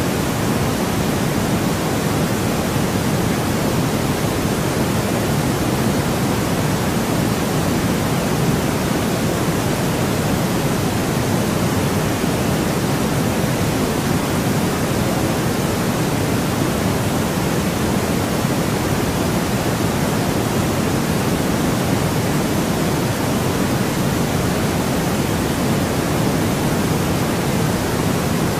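Steady white noise: an even, unbroken hiss that never changes, fullest in the low-mid range.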